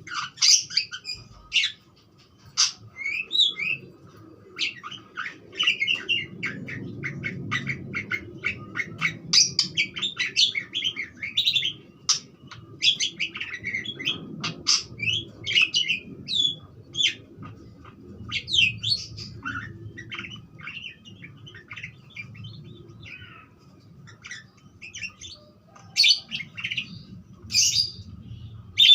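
Budgerigar (parakeet) chattering and warbling: a fast, busy stream of short chirps and quick gliding notes, thinning out for a few seconds past the middle, then a few louder calls near the end.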